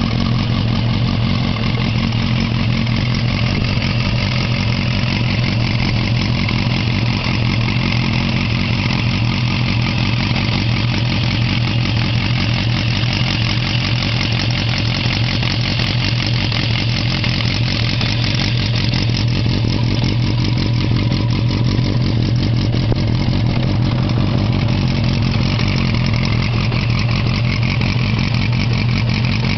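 Suzuki GSX250S Katana's inline-four engine, fitted with FCR carburettors and a Yoshimura exhaust, idling steadily.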